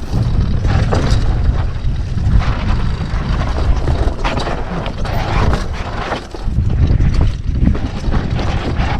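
Wind buffeting the action camera's microphone over the rumble and rattle of a mountain bike rolling down a dirt trail, easing briefly about six seconds in.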